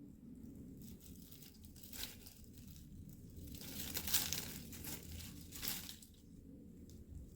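Cockatiel tearing and chewing chestnut leaves with its beak: irregular rips and crackles of leaf, loudest a little past the middle, stopping about a second before the end.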